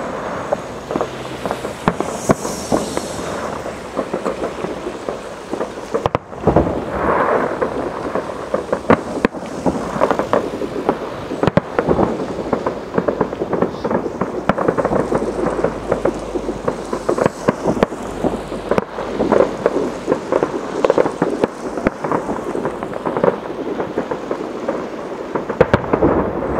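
Many fireworks going off at once: a continuous dense crackle and popping of aerial shells, with frequent louder bangs. The loudest bangs come about six seconds in and near the end.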